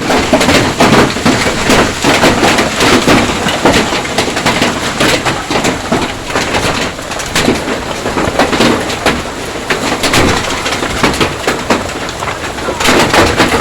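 Hailstorm: a dense, continuous clatter of hailstones striking hard surfaces, many sharp impacts over a steady rush of rain.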